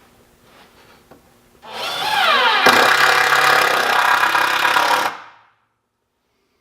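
Power drill driving a deck screw into wood: the motor runs loudly for about three and a half seconds, its pitch sagging under load as it starts, then stops abruptly.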